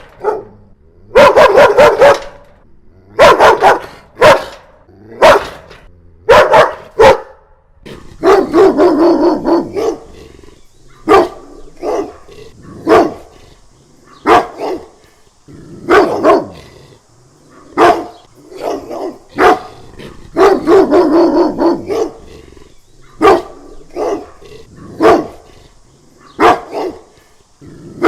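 A dog barking aggressively in repeated loud barks, some in quick runs of several and some single, with a few longer drawn-out barks between them.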